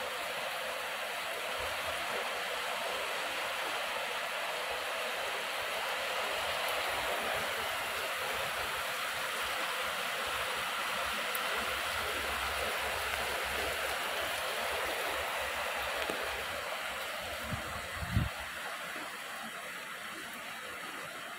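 Heavy rain pouring down steadily onto the roofs, a dense even hiss. A brief low thump comes about 18 seconds in.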